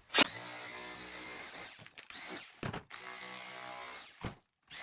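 Electric chisel hammer chipping plaster and mortar off a stone wall, running in several buzzing bursts of about a second each, starting with a sharp knock.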